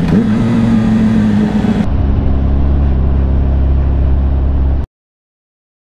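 Suzuki GSR 600's inline-four engine running under way, its note rising slightly, then changing abruptly to a duller, steady low drone. The sound cuts off to dead silence about five seconds in.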